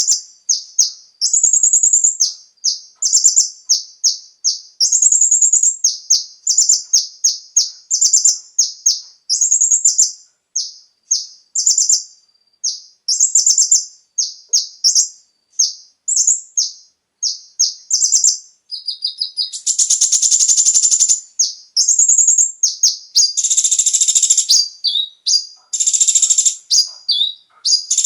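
Kolibri ninja (konin), a small sunbird, singing: quick high-pitched chirps in short repeated phrases. About two-thirds of the way in, the song turns into longer, denser, buzzy trilled bursts.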